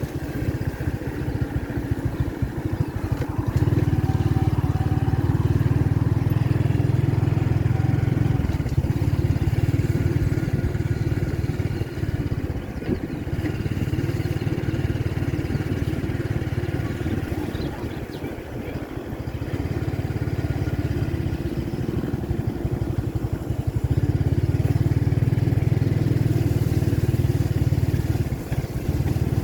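A vehicle engine running with a steady low rumble, swelling louder twice.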